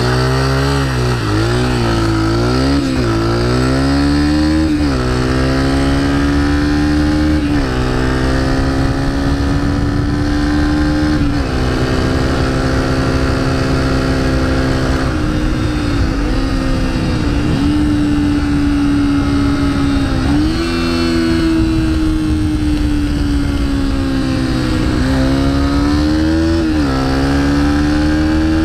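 Small dirt-bike or pitbike engine revving hard, its pitch climbing and then dropping sharply several times as it accelerates and shifts or blips the throttle, with a few stretches held at steady high revs.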